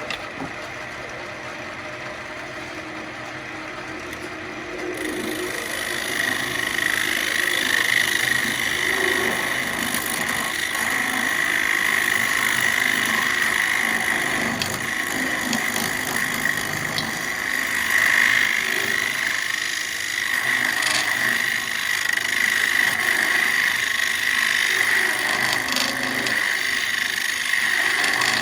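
Central Machinery wood lathe running with a steady motor hum. From about five seconds in, a tool works the spinning ambrosia maple bowl blank, adding a continuous scraping hiss.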